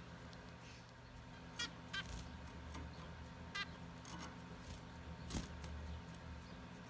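Zebra finches giving a few short, faint calls, spaced about a second or two apart, over a low steady hum, with one sharp click a little past halfway.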